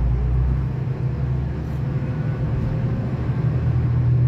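Diesel V/Line train heard from inside the carriage, running with a steady low engine hum as it moves slowly along a platform. The deepest rumble drops away about half a second in, and the hum grows stronger near the end.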